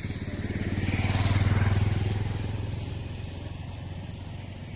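A motor vehicle's engine running. It grows louder about a second in and fades again over the next couple of seconds.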